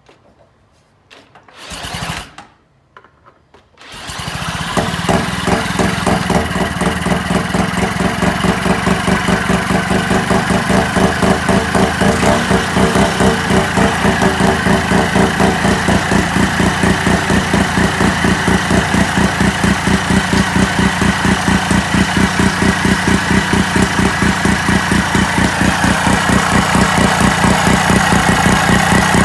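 Sachs KM48 single-rotor Wankel engine being cranked by an electric drill: a short burst of cranking about two seconds in, then about four seconds in the engine fires and keeps running steadily with a fast, even pulsing beat.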